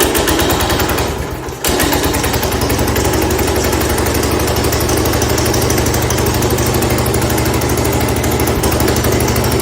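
1970 Cub Cadet 127 garden tractor's single-cylinder Kohler engine running steadily just after starting, on a freshly replaced head gasket. It dips briefly about a second and a half in, then holds an even running beat.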